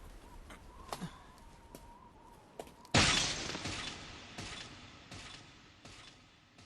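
A sudden loud shattering crash about three seconds in, its noise fading away over a couple of seconds, with scattered small clicks and clinks after it.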